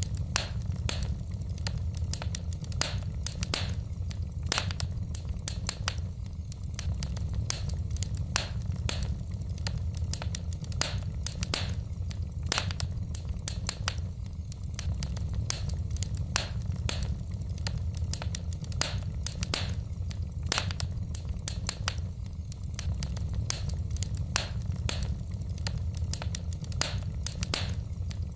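Wood fire in a fireplace crackling: frequent irregular sharp snaps and pops from the burning logs over a steady low rumble.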